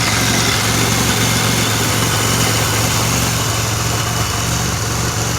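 2007 Pontiac Grand Prix GT's supercharged 3.8-litre V6 idling steadily, running again after a crank-no-start that the owner puts down to the fuel pump relay and spark plugs.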